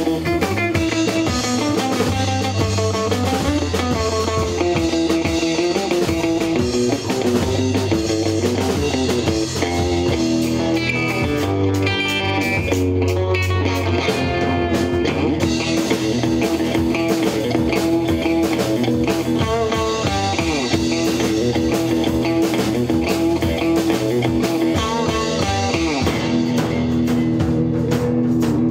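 Rock band playing: electric guitar lines over bass and drums.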